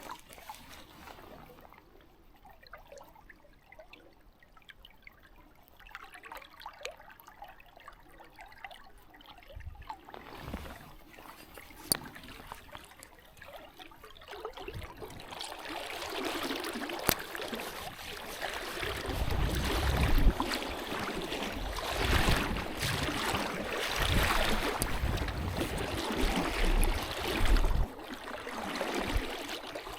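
Shallow creek water running and trickling, faint at first and louder from about halfway in, with low rumbles in the second half.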